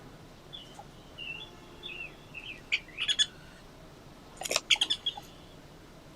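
Small forest songbirds chirping: a run of short chirps, then two louder flurries of sharp calls about three and about four and a half seconds in.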